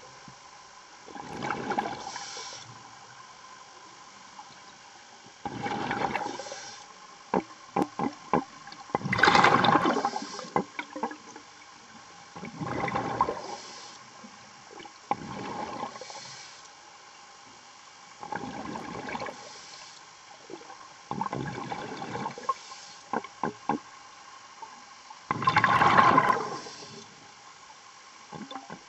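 A diver breathing through a regulator underwater, with a burst of bubbles and hiss every three to four seconds. There are a few quick sharp clicks between some of the breaths.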